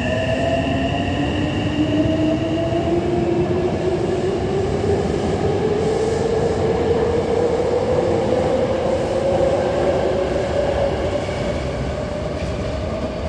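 Hankyu 9000 series electric train pulling away, its VVVF inverter and traction motors whining in a steadily rising pitch as it accelerates, over the rumble of wheels on rail. Two higher steady tones fade out in the first few seconds, and the sound eases slightly near the end.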